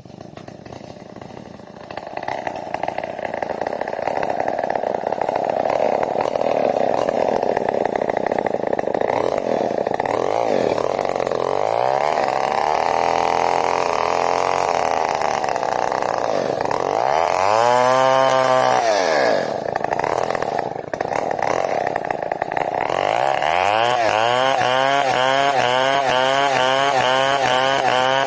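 New West 070 chainsaw running at high revs, its engine note wavering up and down as it works. The loudness builds over the first few seconds. About two-thirds of the way in, the engine speed drops sharply and climbs back.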